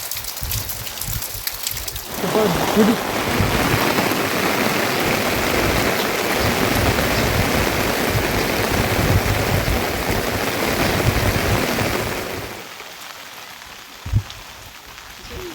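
Rain falling, a patter that turns suddenly into a much louder, dense downpour sound about two seconds in and drops back to a quieter patter near the end. A single sharp knock comes shortly before the end.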